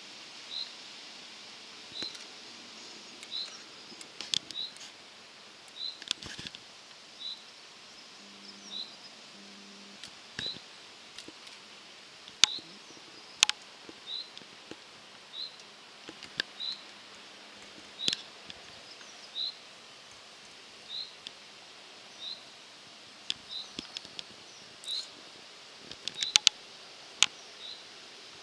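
A bird repeating a short high chirp about once a second over a steady outdoor hiss. A few sharp clicks stand out as the loudest sounds, two of them close together about halfway through and more near the end.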